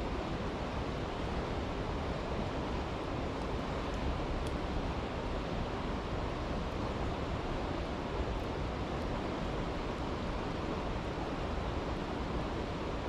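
Steady rushing of a stream, with a couple of faint crackles from a campfire.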